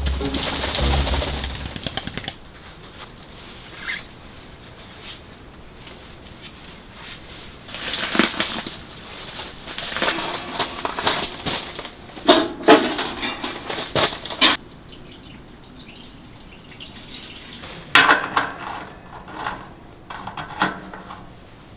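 Objects being handled and set down, giving intermittent clatter and knocks in several short clusters with quiet gaps between them.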